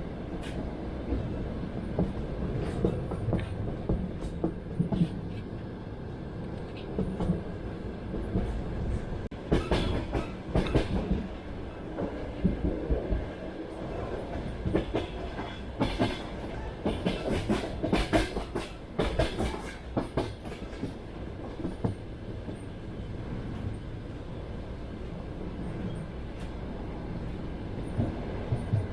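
Train wheels rolling on the rails, a steady rumble. Clusters of sharp clacks come about a third of the way in and again past the middle, as the wheels pass over rail joints.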